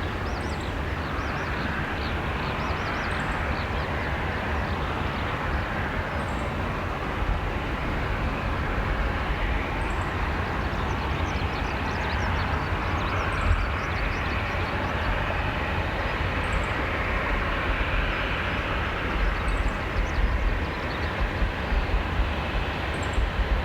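Boeing 737-800 jet engines running steadily after landing as the airliner slows and taxis off the runway: a continuous jet rumble with a hiss.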